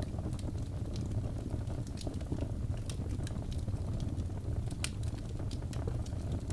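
Crackling fire ambience: irregular sharp pops and crackles over a steady low rumble.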